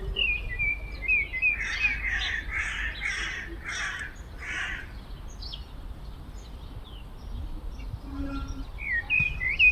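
Common blackbird singing fluted, whistled phrases at the start and again near the end. In between, a run of about five harsh, noisy calls comes roughly two a second.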